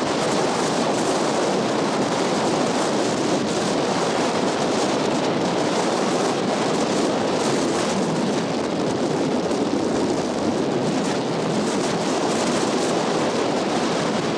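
Strong coastal wind buffeting the microphone: a loud, steady rushing noise with no letup.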